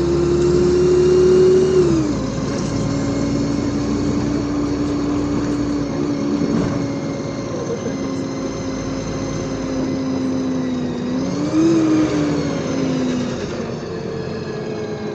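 LiAZ 5292.65 city bus driving, heard from inside: a steady engine and gearbox whine over road noise. The whine climbs slightly and drops sharply in pitch about two seconds in as the automatic gearbox shifts up. It rises and falls again briefly near the end.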